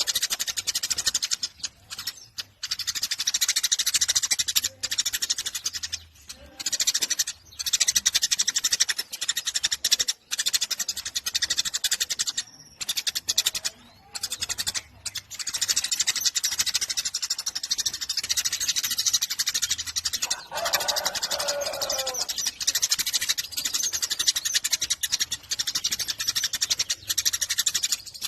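Eurasian tree sparrow chirping in a rapid, continuous high chatter with only short breaks. About twenty seconds in, a lower falling sound lasts about a second and a half.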